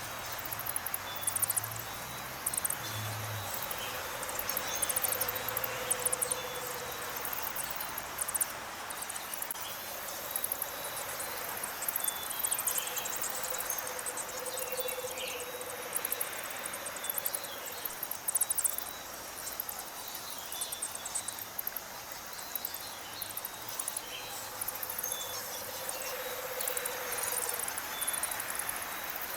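Evening chorus of insects, crickets chirping rapidly and continuously in a high pitch, with scattered short calls from other animals.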